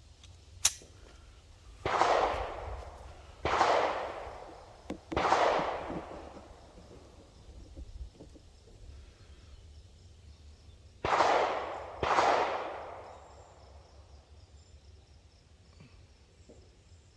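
Five gunshots, each with a long echoing tail: three about a second and a half apart, then, after a pause of several seconds, two more in quick succession. A single sharp click comes just before the first shot.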